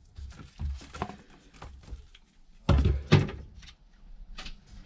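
Tools and parts being moved and set down on a repair bench: a run of light knocks and taps, with two louder thunks a little under three seconds in.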